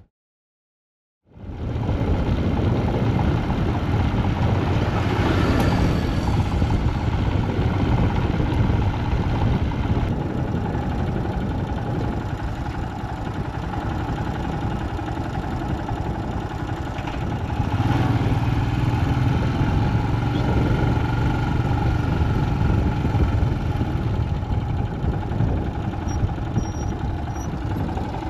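Royal Enfield Himalayan motorcycle on the move, its single-cylinder engine running steadily under wind and road noise. The sound starts about a second in, after a short silent gap.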